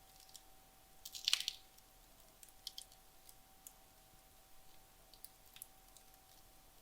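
Wood logs burning down in a fireplace: faint, scattered crackles and pops, with a louder burst of crackling about a second in.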